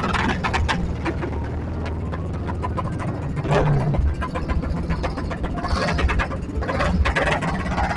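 An engine running with a steady low rumble, with scattered clicks and knocks over it.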